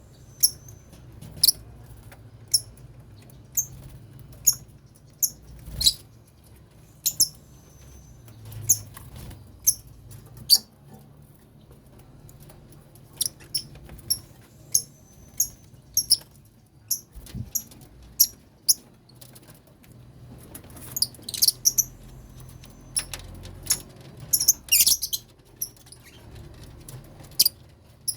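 Lovebirds in a colony cage chirping: short, sharp high-pitched calls about once a second, crowding closer together in a couple of bursts past the middle.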